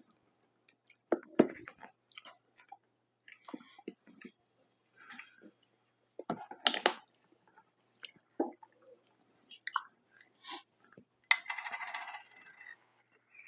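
Close-miked eating sounds: a person chewing Detroit-style pizza, with scattered wet mouth clicks and small clinks. About eleven seconds in there is a denser crackle lasting about a second and a half.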